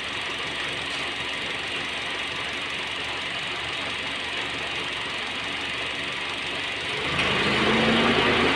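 Honda Jazz engine idling steadily. About seven seconds in it turns louder and deeper, with a steady hum, as the air-conditioning cycles on automatically. It runs on without the misfire shake.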